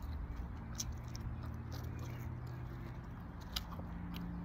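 A person chewing a mouthful of food close to the microphone, with a few soft wet clicks of the mouth, over a faint steady low hum.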